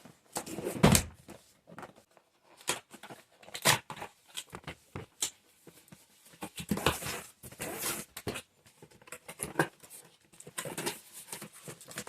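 A cardboard box being opened and its packaging handled: irregular rustles, scrapes and knocks, with a heavy thump about a second in.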